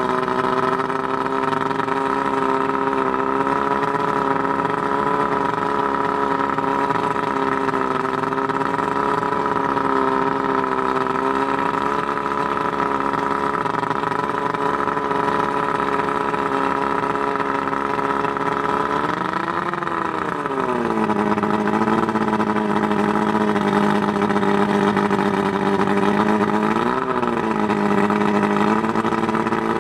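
Johnson 140 two-stroke V4 outboard motor running steadily after a cold start, with new power packs and rebuilt carburetors. About two-thirds through it revs up briefly and drops back to a lower, steady idle; near the end it gives one more short blip of the throttle.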